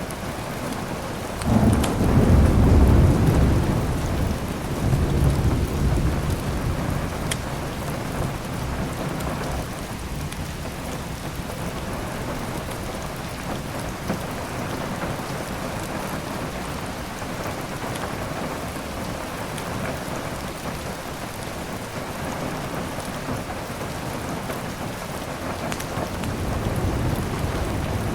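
Steady heavy rain, with a sudden thunderclap about a second and a half in that rolls on as a deep rumble for several seconds before dying away; a softer roll of thunder builds near the end. A few isolated sharp crackles from a wood fire sit under the rain.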